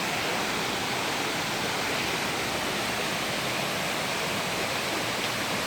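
Rushing water from a waterfall or fast stream, a steady, even rush without breaks.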